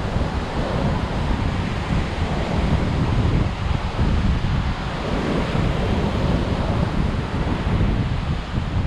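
High surf breaking on a sandy beach, with strong wind buffeting the microphone in a steady low rumble.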